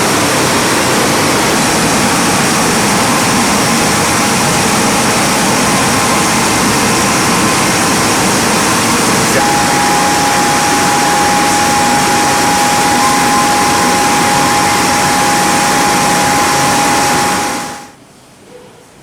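Wide-belt sanding machine running on veneer: a loud, steady rushing noise. A steady whine joins about halfway through. The noise drops away abruptly near the end.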